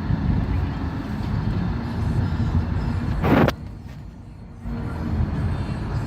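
Car road noise while driving: a steady low rumble. A little past three seconds in comes a brief, loud whoosh, after which the rumble drops off for about a second before returning.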